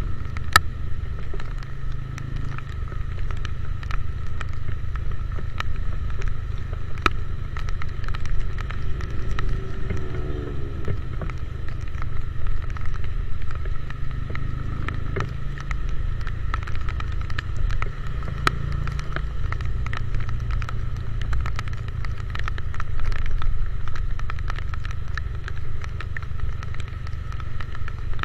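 Motorcycle ride in the rain: heavy wind buffeting on the microphone over the running engine, with scattered sharp ticks of raindrops hitting the camera.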